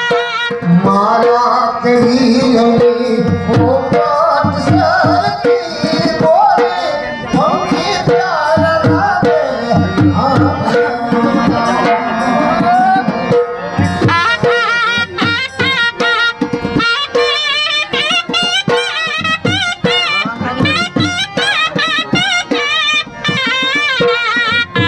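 Gujarati folk music played live: a sarnai, a double-reed pipe, carries a wavering, ornamented melody over steady dhol drumming.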